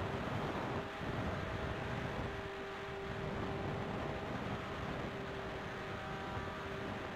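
Mini Swift RC plane's electric motor and propeller running steadily in flight, a steady whine, with wind rushing over the microphone.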